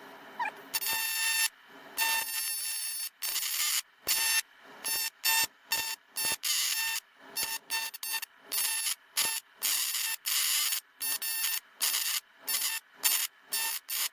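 TIG welding arc on a cracked cast iron engine block, struck and broken off again and again: a hissing buzz with a steady whine that starts and stops abruptly every second or less.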